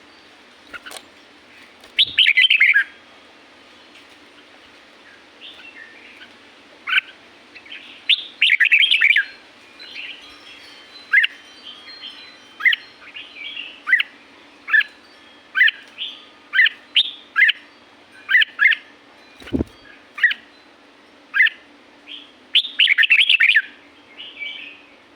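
Red-whiskered bulbul singing: short bursts of rapid, warbling song near the start, around eight seconds in and near the end. Between them it gives single short chirps, roughly one a second. A single dull knock comes about three-quarters of the way through.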